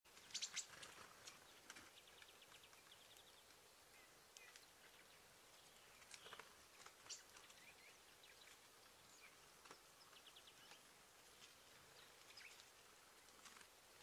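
Faint birds calling: scattered short, sharp chirps, loudest near the start, with a couple of quick trilled series.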